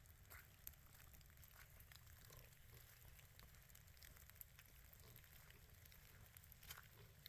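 Near silence: faint outdoor background with a low rumble and a few scattered faint ticks.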